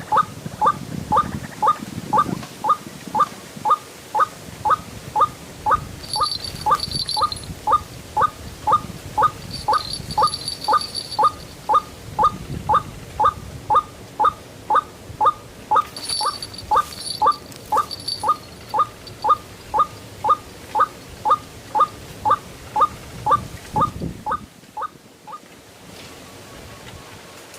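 White-breasted waterhen call, the 'ruak' note repeated evenly about twice a second, stopping about 24 seconds in. Brief high chirps from another bird come in a few times.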